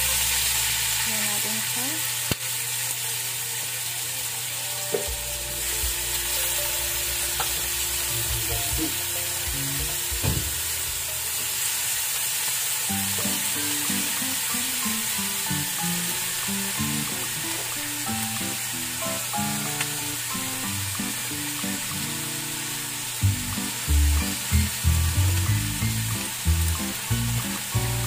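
String beans and pork sizzling in a hot wok with a steady frying hiss. In the last few seconds come irregular knocks and scrapes as they are stirred.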